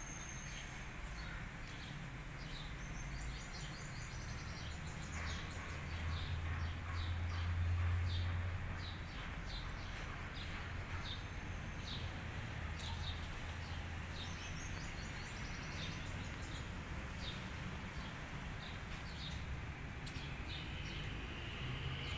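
Small birds chirping repeatedly in short high calls, over a low background rumble that swells and fades about a third of the way in.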